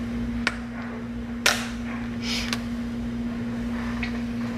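Sharp clicks and snaps from a seasoning container being handled as black pepper is added: two loud clicks about half a second and a second and a half in, a short shaking rattle and another click soon after. A steady low hum runs underneath.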